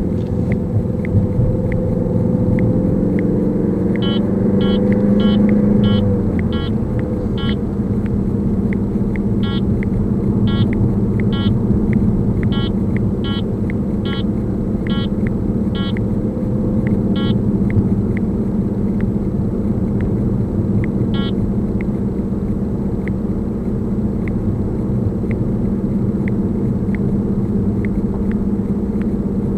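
Vantrue X2 dashcam's own faint, regular clicking, about two clicks a second, picked up by its microphone over a car's steady engine and road rumble inside the cabin. The engine note rises for the first few seconds and then drops. Louder, sharper clicks come in short runs through the middle.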